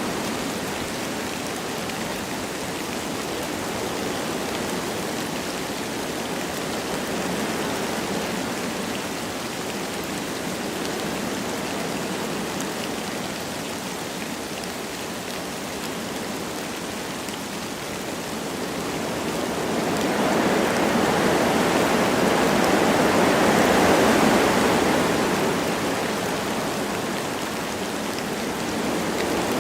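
Wind blowing through forest trees with light rain falling, a steady rushing hiss. About two-thirds of the way through a gust swells louder, then dies away.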